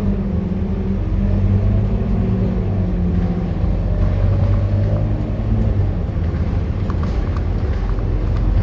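Scania K230UB city bus's diesel engine running under way: a steady low rumble, with a pitched drone that slides slowly down and fades out about halfway through. A few light clicks or rattles come near the end.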